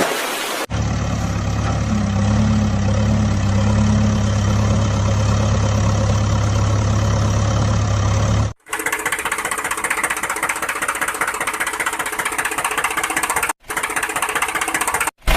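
Engine running with a knocking rhythm, heard in edited pieces that cut in and out abruptly: a steady low hum for the first eight seconds or so, then a faster, rattling engine sound.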